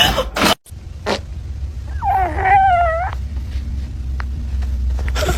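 A cat meowing once, a bending call of about a second, about two seconds in. A few short knocks come in the first second, over a steady low rumble.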